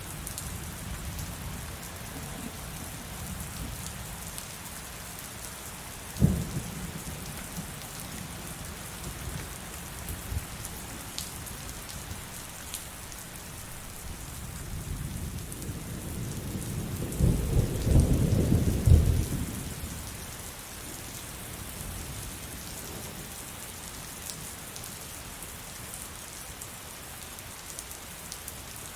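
Steady heavy rain with thunder: a sharp low crack about six seconds in, then a rumble of thunder that builds, peaks about halfway through with several loud cracks, and dies away.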